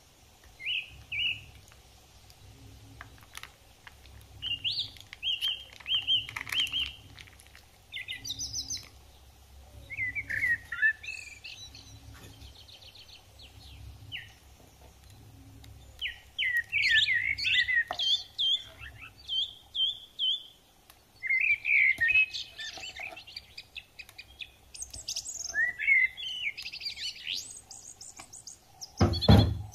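Songbirds chirping and singing in many short, varied phrases and trills, with one loud thump near the end.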